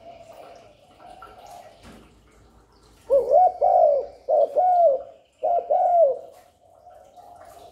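Spotted dove cooing: a loud run of arched coo notes in three phrases near the middle, over a fainter, steady cooing from another dove.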